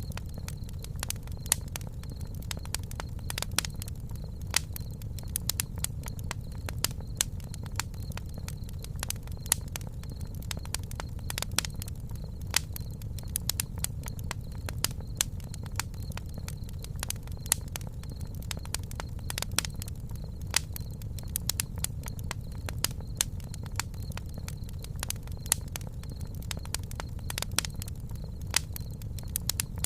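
Campfire burning steadily: irregular sharp crackles and pops of burning wood over a low, even rumble of the flames.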